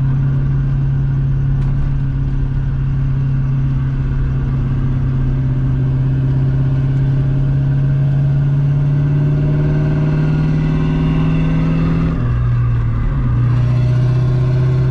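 Ford 4.6 L two-valve V8 in a 1996 Mustang GT, heard from inside the car while it is driven gently on a new clutch. The engine note climbs slowly, then drops about twelve seconds in and holds lower.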